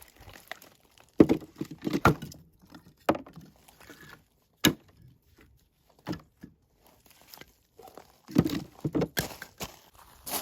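Firewood being split and handled: a series of sharp wooden knocks and thuds, bunched about a second in and again near the end, with single hits between.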